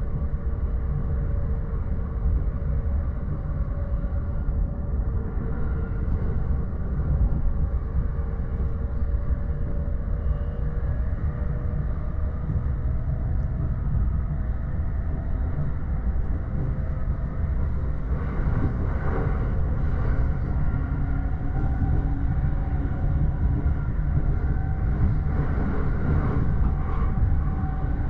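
Cabin sound of a JR East E231 series commuter train running: a steady low rumble of wheels on the rails with faint whining tones over it, and patches of sharper rattling in the second half.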